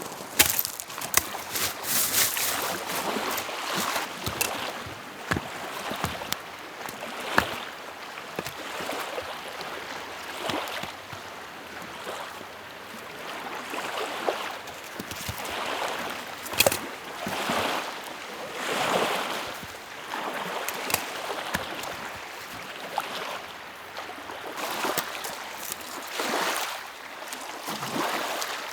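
Small lake waves lapping against the shore, washing in and out in repeated swells every couple of seconds, with a few sharp clicks scattered through.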